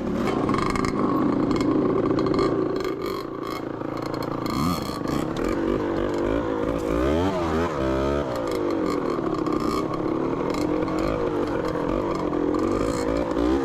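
Dirt bike engine running under changing throttle, its pitch rising and falling, with a few quick revs about halfway through.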